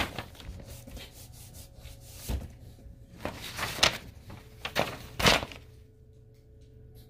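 Handling noise as packaging is opened: several short rustles and knocks of paper and plastic over about five seconds, one with a low thud. It then settles to a faint steady hum.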